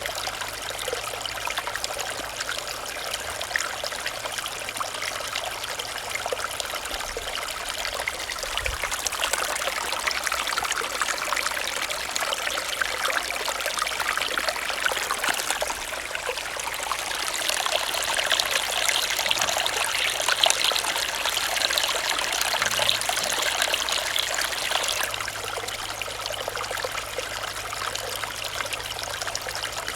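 Small stream running, with steady trickling water that grows a little louder and brighter for several seconds in the middle.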